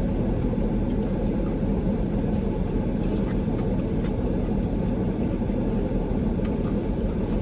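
Steady low rumble inside a car's cabin, as from the engine idling, with a few faint clicks now and then.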